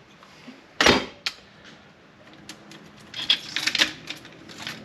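Metal engine parts and tools knocking and clinking on a workbench during an engine teardown: one sharp knock about a second in, a lighter one just after, then a quick run of clicks and clinks near the end.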